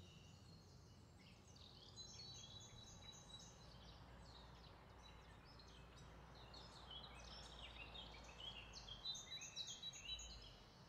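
Near silence with faint bird chirping in the background: many short high chirps, a little busier in the second half.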